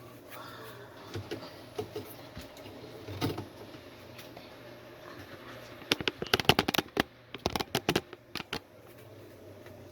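Sharp clicks and taps of objects being handled: a few scattered ones, then a quick cluster of knocks and clatter about six seconds in.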